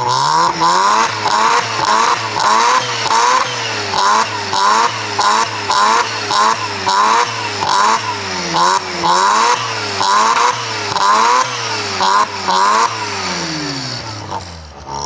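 Rotary engine revved hard over and over in quick blips, about one and a half a second, then the revs fall back to idle near the end. It is being revved to make the exhaust pop and shoot flames.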